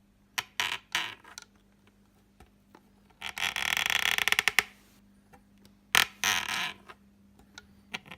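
Rear vanity mirror flap in a Mercedes W140's rear headliner being worked open and shut. It gives clicks and a long rapid creak of dry plastic about three seconds in, then shorter creaks. It is the squeak that the owner cures by greasing the hinge.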